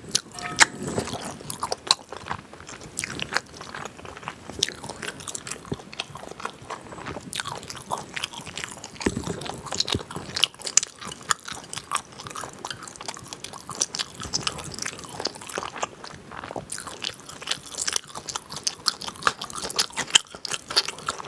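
Close-miked mouth chewing food: a dense, irregular run of small wet clicks and crunches, with no talking.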